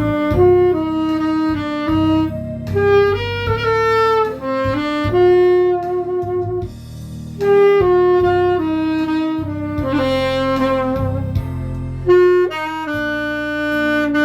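Saxophone playing a slow, sustained ballad melody, note by note, over a backing accompaniment with a bass line.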